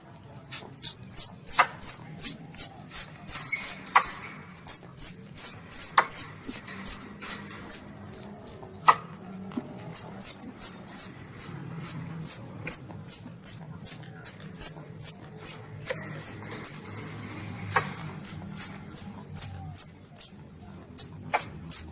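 Baby Asian palm civet (luwak) calling: a quick run of high, thin squeaks, each falling in pitch, about two to three a second, broken by a few short pauses, with an occasional sharp click and a low hum beneath.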